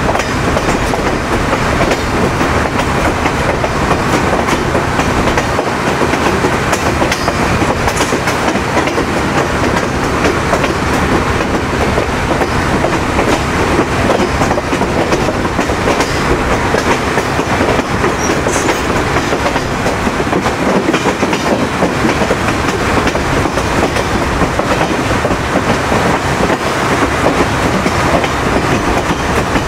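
Chepe passenger train running along the track, heard from beside its coaches: a steady rumble of wheels on rail with a constant run of quick clicks over the rail joints.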